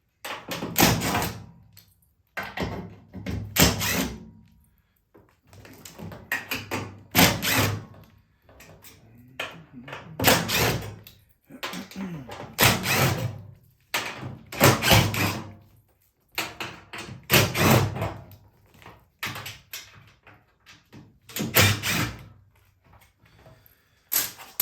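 Power driver running in short bursts, backing screws out of the washer's sheet-metal back panel, about one burst every one to two seconds.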